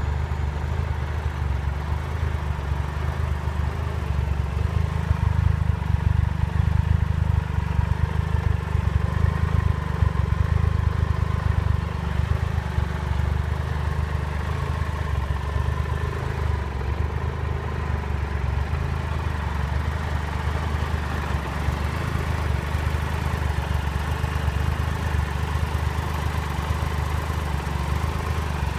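Triumph Trophy SE's three-cylinder engine idling steadily, a low even hum.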